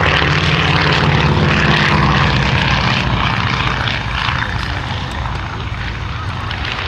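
Avro Anson Mk I's twin Armstrong Siddeley Cheetah radial engines running as the aircraft passes, loudest in the first few seconds and easing off after about four seconds.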